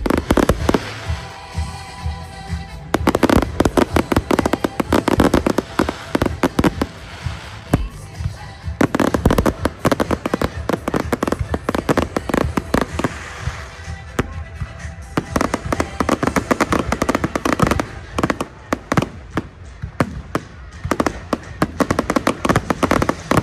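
Fireworks display going off in a dense run of rapid bangs and crackles, with music playing underneath.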